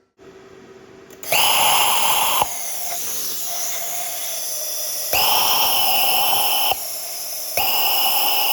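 Oxy-acetylene cutting torch cutting out a steel bushing: a steady flame hiss, with the cutting-oxygen lever pressed three times, each a loud, whistling blast lasting a second or more.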